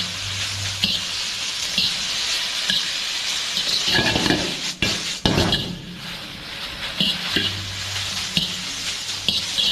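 Chicken chowmein noodles sizzling in a hot pan as they are stir-fried with soy sauce. A utensil scrapes and taps the pan about once a second, with a louder burst of tossing and clatter about four to six seconds in.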